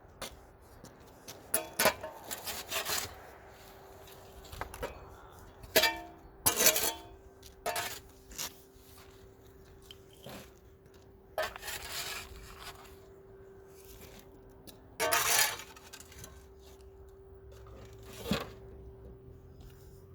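Debris being scraped and crunched out of a clogged drain: irregular bursts of scraping and crunching, several seconds apart, over a steady faint hum.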